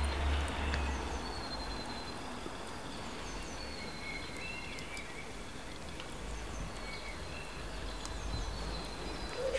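Banana fritters sizzling in hot oil in a frying pan, a steady frying hiss, with faint bird calls over it and a low rumble in the first second or so.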